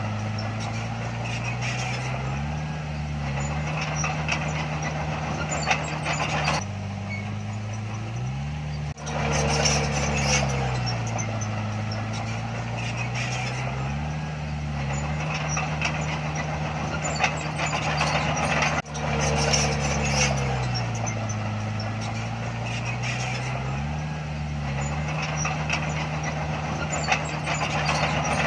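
Heavy diesel engine of earthmoving machinery working under load, its speed falling and rising again every few seconds.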